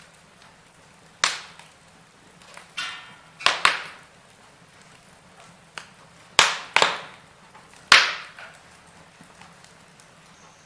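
Wood fire in a fireplace crackling, with a run of sharp, loud pops from the burning logs over a faint steady hiss.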